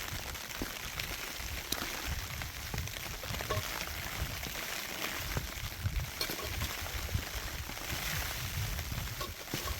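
Snowstorm wind buffeting the microphone, a gusty low rumble under a steady hiss, with a few faint ticks.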